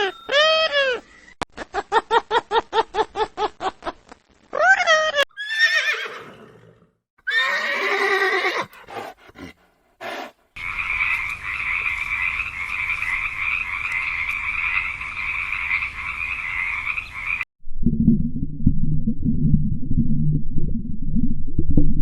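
A run of different animal calls in quick succession: arching pitched calls, a rapid train of pulses, a horse whinnying, a few clicks, then a long steady high buzzing chorus that cuts off suddenly, followed by a low rumbling sound near the end.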